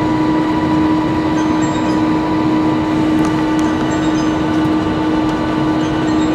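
Steady cabin noise of a Boeing 757 taxiing in after landing: the even rush of its Rolls-Royce engines and the cabin air conditioning, with a strong steady hum and fainter higher tones above it.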